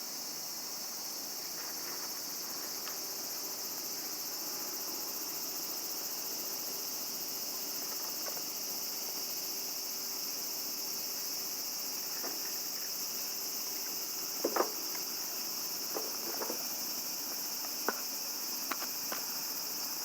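Steady high-pitched chorus of night insects such as crickets. Several short, sharp clicks stand out in the second half.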